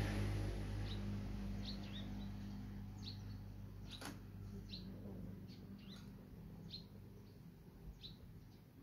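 Small birds chirping: short high chirps, about one or two a second, over a low steady hum that fades away. A single sharp click about four seconds in.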